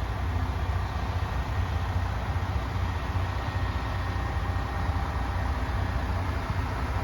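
Diesel engine of a MAN TGS 28.430 tipper truck running steadily with a deep, even rumble.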